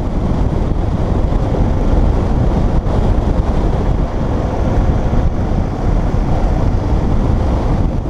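Wind rushing over the microphone of a motorcycle moving at road speed, a steady heavy rumble with engine and road noise mixed in.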